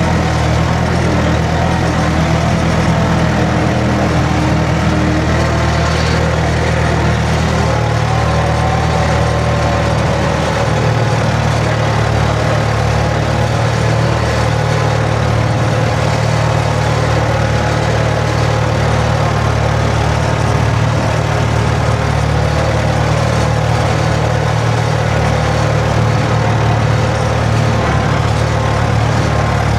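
Skid steer engine running steadily, with a slight shift in its pitch about ten seconds in.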